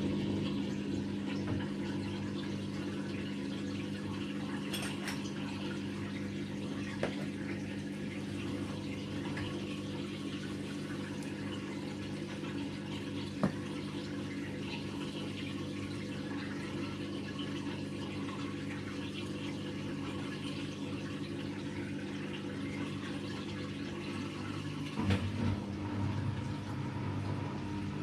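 AEG Lavamat Turbo washer-dryer running a wash: a steady hum with water running and splashing inside the machine. A sharp click about halfway through and a few knocks near the end.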